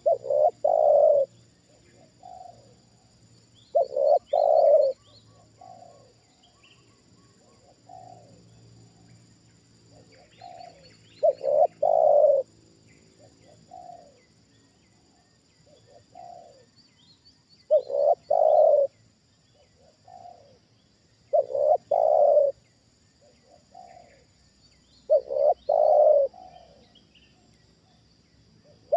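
Spotted dove cooing its repeated phrase, six loud calls of about a second each, several seconds apart, with fainter answering coos between them. Small birds chirp faintly in the background.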